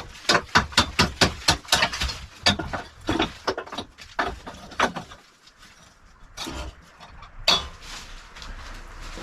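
Hammer blows, about four a second for the first three seconds, then slower and fewer, with two last single strikes near the end.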